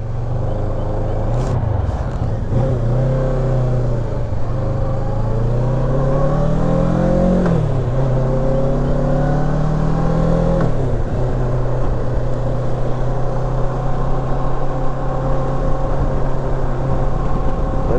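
Kawasaki Versys 650 parallel-twin engine pulling away and accelerating through the gears: the engine note rises, drops sharply at an upshift about seven and a half seconds in, rises again, drops at a second upshift about ten and a half seconds in, then runs steadily at cruising speed. A short click comes about a second and a half in.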